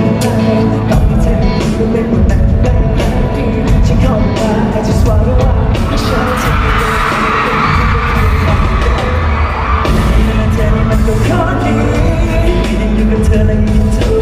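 Live band playing loud pop-rock with singing and a steady beat.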